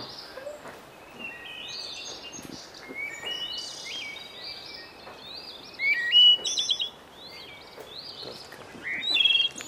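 Songbirds chirping and singing in short, high phrases and quick trills, loudest about six seconds in and again near the end.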